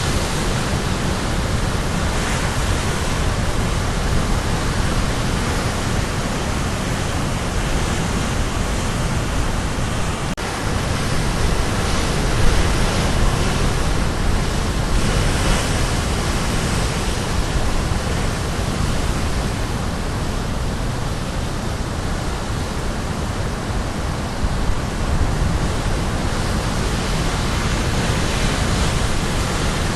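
Sea waves crashing and washing on a rocky shore, a continuous rushing with a deep low rumble underneath, swelling a little as bigger waves break.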